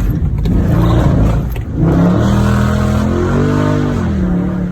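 Car engine and exhaust accelerating, heard through an open window from inside the car: the pitch climbs, drops briefly about two seconds in, climbs again, then eases back near the end.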